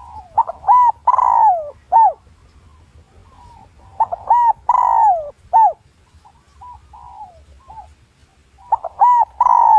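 Spotted dove cooing: three loud phrases about four seconds apart, each a few short coos and one longer falling note, with softer coos between them. A male's territorial song of the kind used as a lure call to draw wild males in to fight.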